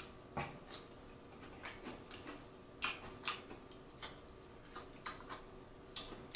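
Close-miked chewing of a bite of raw cucumber: irregular crisp crunches and wet mouth clicks, a dozen or so spread unevenly.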